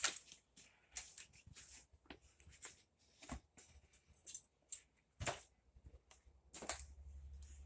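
Irregular light scrapes, rubs and clicks of hands handling and feeling over a top-load washer's inner tub assembly, with a few sharper knocks.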